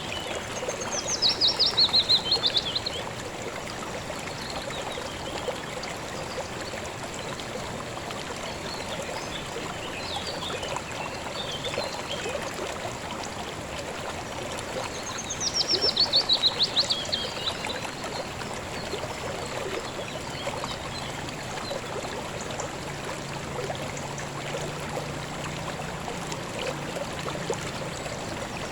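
Steady rushing and babbling of a river stream, with a bird twice giving a loud, fast high trill that falls in pitch, each lasting about two seconds: once right at the start and again about halfway through.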